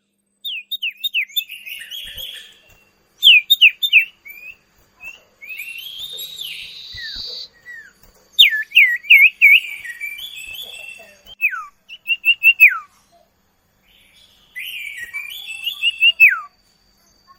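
Common iora (sirtu, cipoh) singing in phrases of quick chirps and sharp downward-sliding whistles, with short pauses between them. This is the kind of song played as a lure to set other songbirds singing. A thin steady high tone sounds under the song from about six seconds in.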